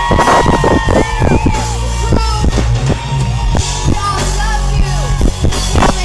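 Live rock-pop band music played loud at an outdoor concert: drums striking a steady beat over sustained bass notes and held instrument tones, with some singing or shouting.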